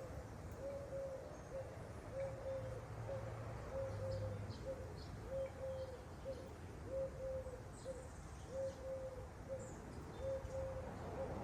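A dove cooing steadily, a long low coo followed by a short one, repeated about every second and a half. Faint high chirps of small birds sound in the background.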